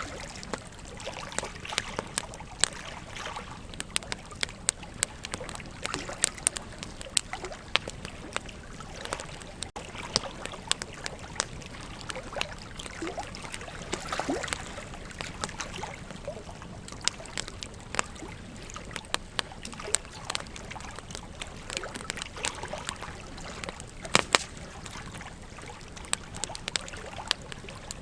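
Wood campfire crackling, with irregular sharp snaps and pops, a few of them loud, over a steady hiss of flowing river water.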